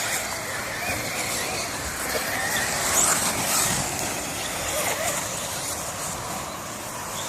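Several 1/10-scale electric 4WD off-road RC buggies racing round the track, their motors and drivetrains whining, pitch rising and falling with the throttle.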